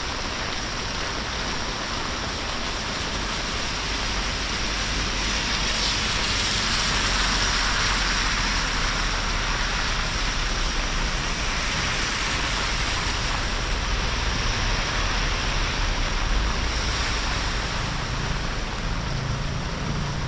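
Steady heavy rain, an even hiss that grows somewhat louder about a third of the way in.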